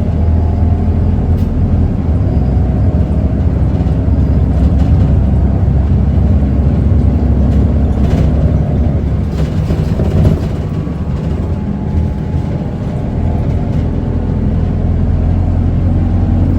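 Isuzu Erga city bus heard from inside the cabin, its diesel engine and road noise a steady low rumble. The rumble dips briefly about ten seconds in, with occasional light rattles.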